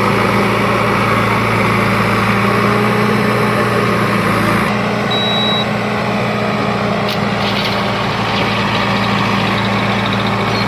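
Heavy diesel engine running steadily at a low, even pitch, with an abrupt change in the background hiss about halfway through.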